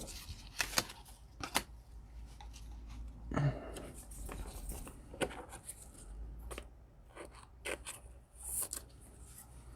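Trading cards being handled and flipped through by hand: scattered light clicks and slides of card stock, with a brief rustle a little after three seconds in.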